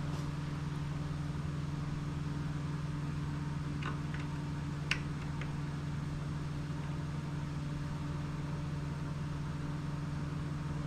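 Steady low hum of background machinery, with a few light metallic clicks in the middle from hand tools tightening the water pump housing screws on an outboard lower unit.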